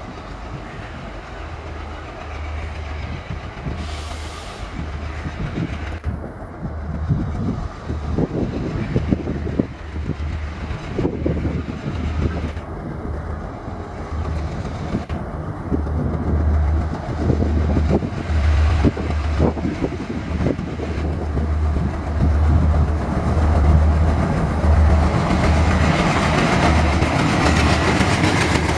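Diesel locomotive hauling a passenger train, its engine throbbing low and the wheels clattering over the rail joints and points. The noise grows louder near the end as a train runs close past.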